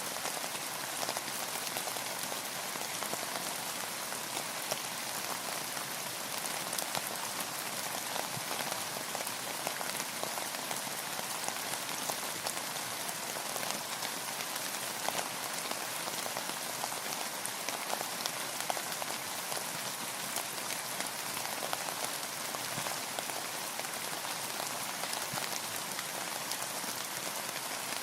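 Steady rain falling, a dense even patter of many small drops hitting a surface, with no let-up.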